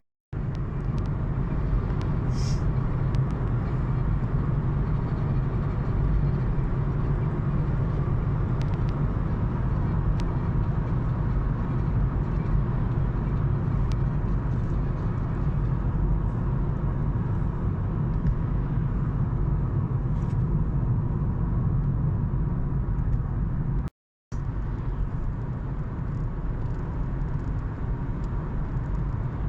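A car being driven, with steady low road and engine noise heard from inside the cabin. The sound cuts out for a moment at the start and again about 24 seconds in.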